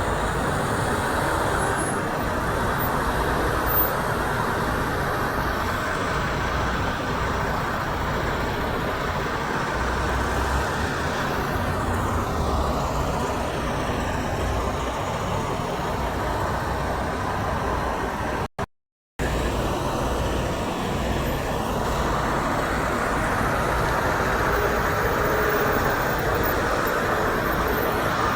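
Steady road traffic noise as trucks and cars pass on a highway, with no horn blast standing out. The sound cuts out briefly about two-thirds of the way through.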